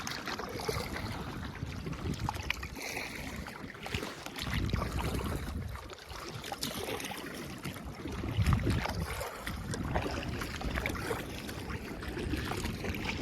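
Water splashing and lapping around a kayak moving on the harbour, with scattered small splashes and gusts of wind buffeting the microphone.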